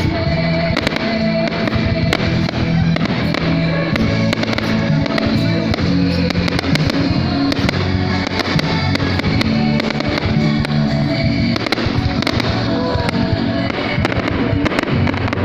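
Fireworks popping and crackling in many sharp reports over loud music.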